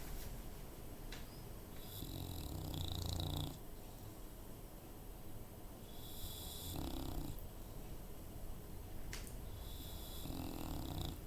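Bulldog snoring in sleep: three long snores about four seconds apart, each a low rattle with a high whistle over it.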